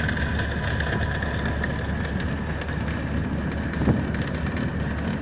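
1929 Ford Model A's four-cylinder engine running steadily, heard from inside the car, with a single short knock about four seconds in.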